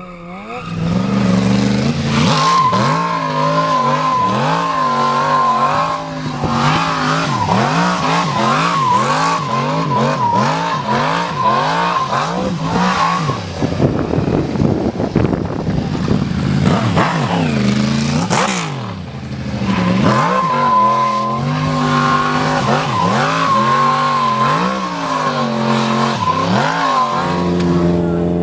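Stunt motorcycle engine revved up and down over and over, with a steady high tyre squeal through long stretches and a noisier skid about halfway through.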